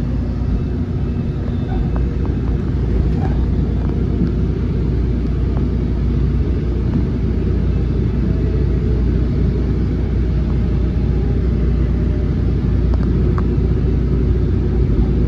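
MARC Camden Line commuter train in motion: a steady low rumble of the ride, heard on board, with no change in pace.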